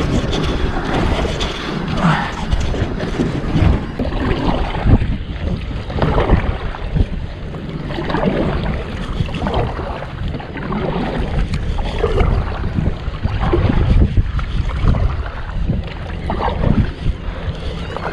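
Wind buffeting the microphone over water, with repeated splashes from a kayak paddle dipping into the water every second or two.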